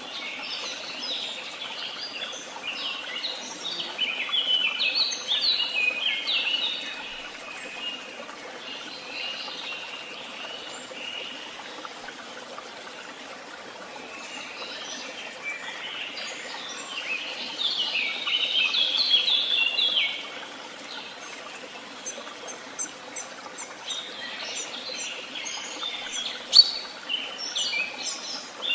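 Woodland songbirds singing in bursts of quick chirping phrases a few seconds long, with pauses between, over a steady background hiss.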